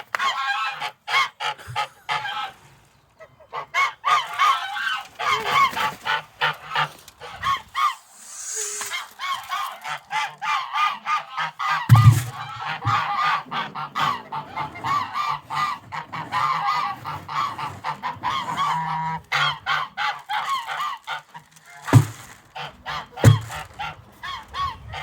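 Domestic geese honking and cackling in rapid, overlapping calls, with a short lull about three seconds in. A few dull knocks sound around halfway and near the end.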